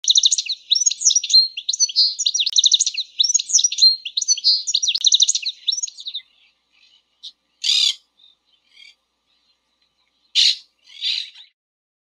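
European goldfinch singing a rapid, twittering song for about six seconds, then a few short, separate calls of a monk parakeet, the loudest two near the end.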